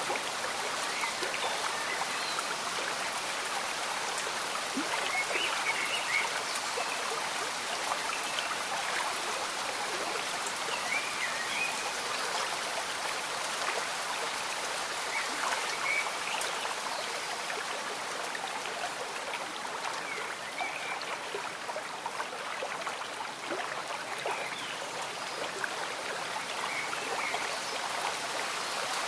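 A slow-moving stream bubbling, with gentle rain falling: a steady, even wash of water sound that does not let up.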